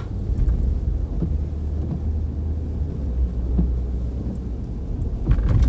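Steady low rumble of a car in motion, heard inside the cabin: road and engine noise.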